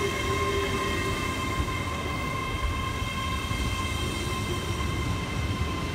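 GWR Class 800 Intercity Express Train moving slowly past the platform: a low rumble of wheels on rail under a steady high electrical whine.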